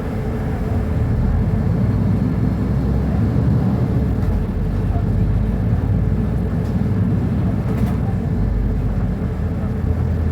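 Diesel engine of a Mercedes-Benz O-500UA BlueTec 5 articulated bus running steadily with a deep rumble, growing slightly louder about a second in.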